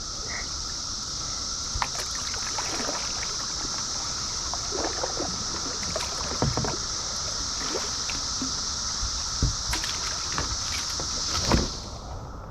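Steady high drone of a Brood X periodical cicada chorus, with a weaker lower steady hum under it, over scattered splashes and knocks of a kayak paddle. The drone cuts off abruptly near the end.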